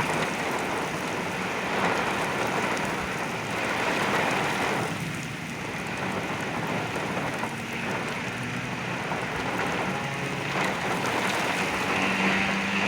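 Heavy rain and strong gusting wind of a derecho thunderstorm: a steady rushing noise that swells and eases a little.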